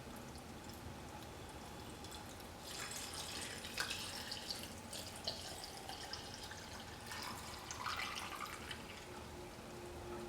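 Liquid splashing and trickling in a kitchen, in two spells: one of about two and a half seconds, then after a pause a shorter one of about a second and a half.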